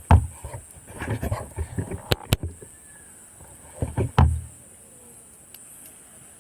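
Knocks, clatters and heavy thumps close by: a burst right at the start, a run of clattering with two sharp cracks about two seconds in, and a heavy thump around four seconds. Under them a steady high-pitched chorus of summer insects.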